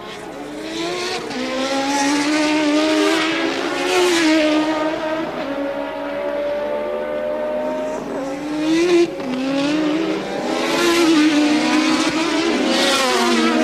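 1983 Formula One cars at racing speed, several engines overlapping, their pitch climbing through the revs and dropping again at each gear change.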